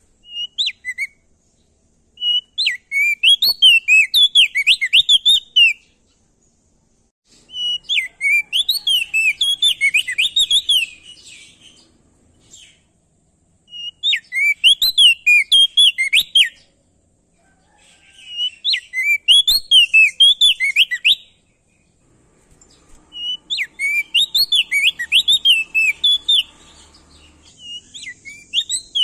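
Opior jambul (crested darkeye) singing: bouts of rapid, warbling chirped notes a few seconds long, separated by short pauses.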